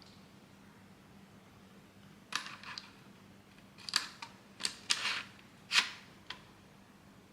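3D-printed plastic toy parts clicking and snapping, about eight sharp clicks spread over four seconds, the loudest near the end.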